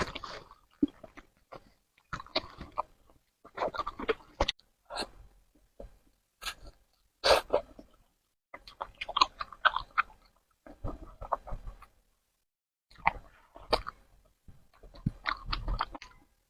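Close-up eating sounds of a person chewing spicy noodles: wet chewing noises in irregular bursts, with a couple of short pauses.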